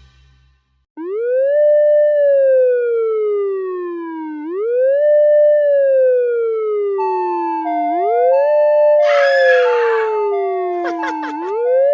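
Police siren wailing, starting about a second in: a quick rise in pitch followed by a slow fall, repeating about every three and a half seconds. From about seven seconds a two-tone hi-lo siren alternates over it. A short noisy burst comes around nine seconds, and a few clicks come near the end.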